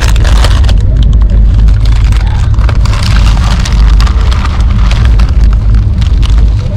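Passenger train running: a loud, steady low rumble with a constant rattling crackle over it.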